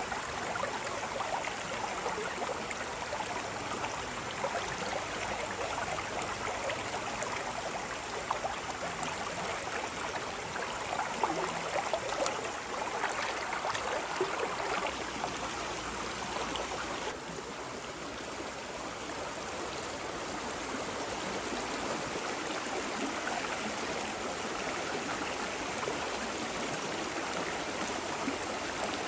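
A stream of water running steadily over rocks, with a few sharp splashes or clicks near the middle.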